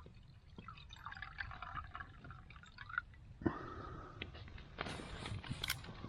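Filtered water being poured into a small pot, gurgling and trickling. A little over three seconds in, a steady hiss starts, with a few sharp clicks near the end.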